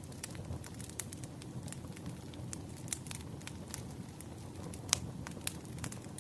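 Wood fire burning: irregular sharp pops and snaps of burning firewood over a low steady rumble of the flames, with one louder pop about five seconds in.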